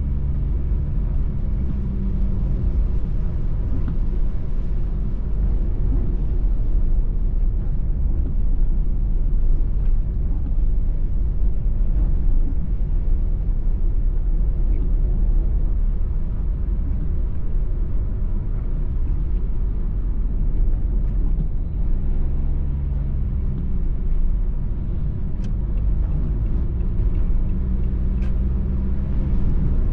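Car driving, heard from inside the cabin: a steady low engine and road rumble with tyre noise, the engine note coming through more clearly near the start and again about 22 seconds in.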